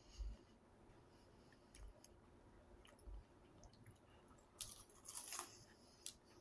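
Faint chewing and crunching of butter crackers with cheese and pepperoni, in scattered small crunches and soft thumps. A louder crackly burst comes about five seconds in.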